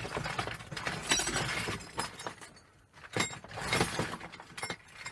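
Small scrap electrical fittings (plugs, switches and the like, plastic with brass parts) clattering and clinking as they are rummaged through and tossed onto a pile, with a short pause about three seconds in.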